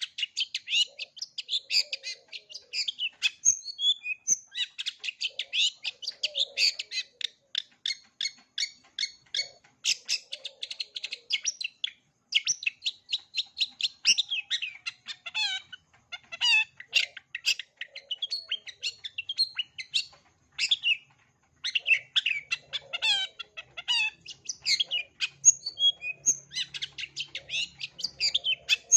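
A long-tailed shrike (cendet) sings a fast, almost unbroken run of high chattering and whistled notes, packed with phrases mimicked from other birds. It breaks off briefly about twelve and twenty-one seconds in.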